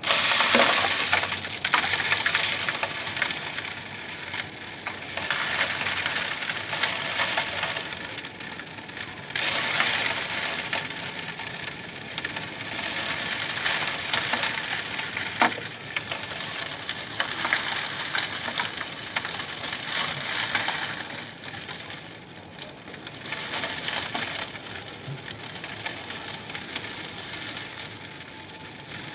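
Bird seed pouring through a fan-driven seed cleaning machine: a dense hiss of rattling grains that starts suddenly and swells and eases in waves as more seed is fed in, while the fan's air blows the chaff away from the clean seed.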